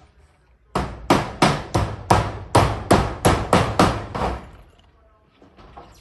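Hammer driving a nail into zinc roofing sheet: about eleven quick, ringing strikes, roughly three a second, stopping a little over four seconds in.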